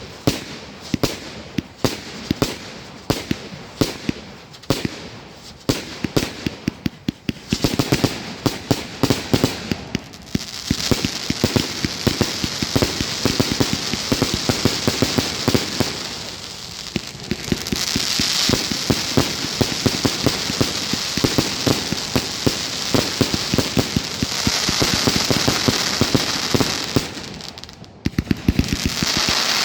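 A fireworks display going off. First comes a rapid run of sharp bangs and cracks. From about ten seconds in it becomes a dense, continuous crackling with a hiss that swells twice. Sharp cracks return near the end.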